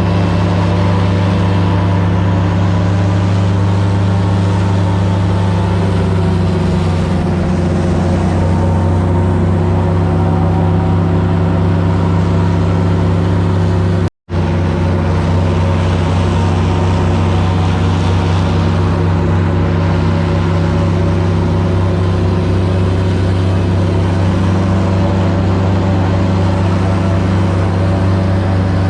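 Airboat engine and propeller running steadily at speed, a loud, even drone with a slight change in pitch about a quarter of the way in. The sound cuts out for an instant about halfway through.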